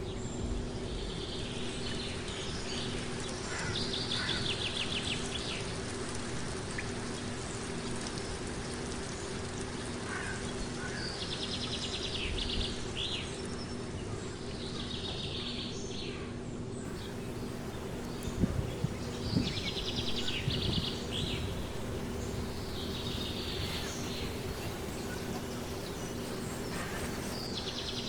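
A songbird singing short trilled phrases that repeat every few seconds, over a steady background hiss and a faint low hum. A few sharp knocks come about two-thirds of the way through.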